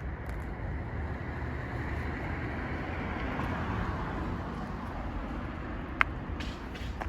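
Kawasaki Zephyr χ inline-four engine running through a BEET aftermarket exhaust, a steady low rumble that swells a little in the middle. A sharp click sounds about six seconds in.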